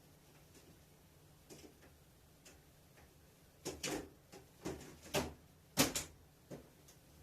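A run of sharp, short clicks and knocks, about six in three seconds, starting a little past halfway, after a few faint ticks.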